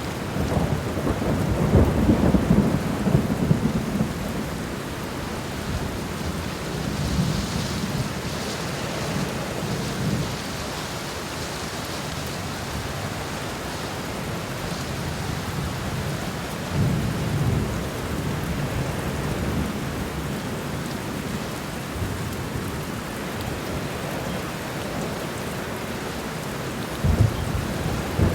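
Steady rain falling on the ground in a garden, an even hiss throughout. Low rumbling swells rise out of it three times: the loudest in the first few seconds, another in the middle and a short one near the end.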